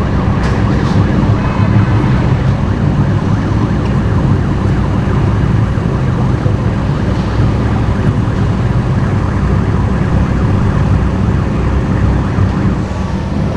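Loud modified car engine running close by: a steady low rumble that starts suddenly and holds through.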